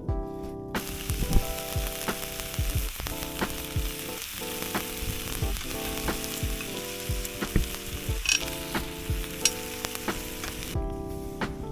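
Food sizzling in a hot pan over a campfire, with occasional light knocks. The sizzle starts about a second in and stops shortly before the end, over background music with steady notes.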